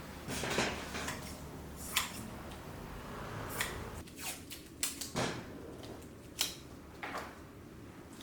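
Irregular clicks, taps and rustles of hands working carbon fibre cloth over a plastic scooter shell, about a dozen sharp ticks spread unevenly, over a low steady hum.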